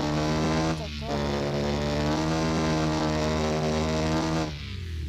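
Motorcycle engine revved up from idle and held at high revs, dipping briefly about a second in, then dropping back to idle near the end.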